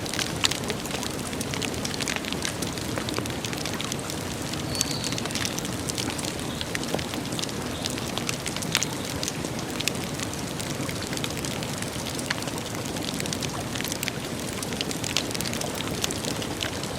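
Campfire crackling with frequent sharp pops and snaps over a steady low rush of burning.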